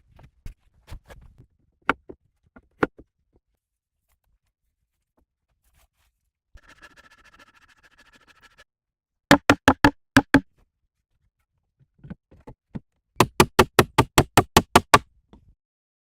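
A few scattered knocks, then a brief steady high hum, then two quick runs of sharp, loud knocks, about eight a second, each lasting a second or two.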